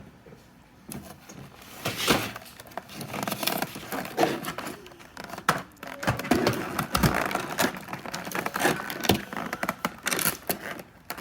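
Handling of a model airliner's box and packaging: irregular rustling, scraping and small knocks and clicks, starting about two seconds in.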